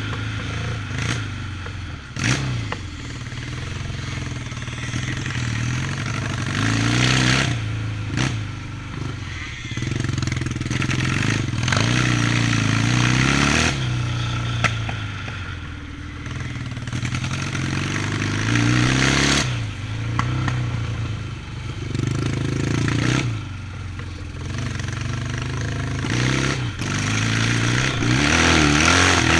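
Yamaha 650 motorcycle engine being ridden hard, revving up and dropping off throttle over and over, its pitch climbing and falling every few seconds.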